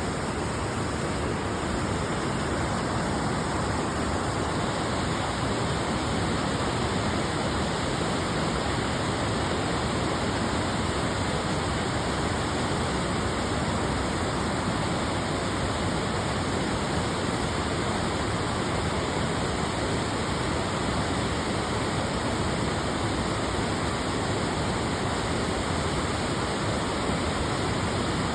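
Steady rushing water, an even unbroken roar with no change in level.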